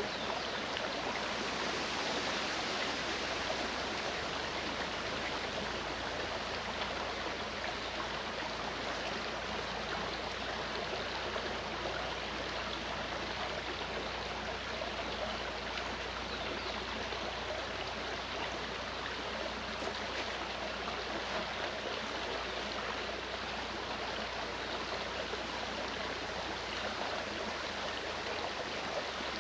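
Clear mountain stream flowing: a steady rush of running water.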